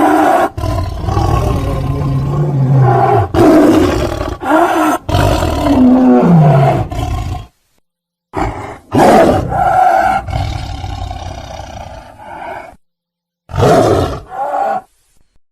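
A series of loud, tiger-like roars and growls, some sliding down in pitch. They break off abruptly into silence twice, about halfway through and again near the end.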